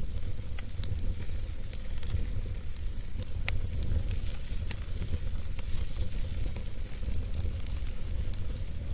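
Wood fire burning in a fireplace: a steady low rumble and hiss with scattered crackles and pops, one sharper pop about three and a half seconds in.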